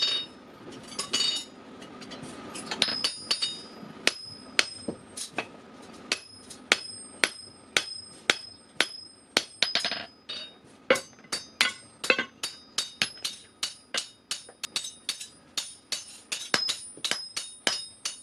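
Hand hammer blows on forged steel against an anvil, each strike ringing. Irregular at first, then a steady beat of about two to three blows a second.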